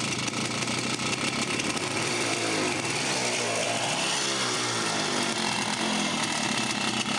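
Small single-cylinder two-stroke motorcycle engine running with its buzzing note. Its revs rise and fall between about two and five seconds in.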